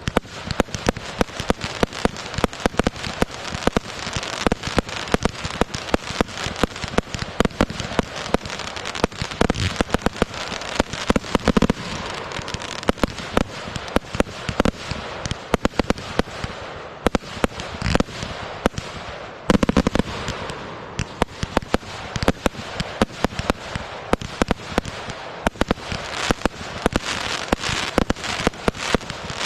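Fireworks going off in a rapid barrage: many sharp bangs a second over continuous crackling, with a couple of deeper booms about a third and two-thirds of the way through.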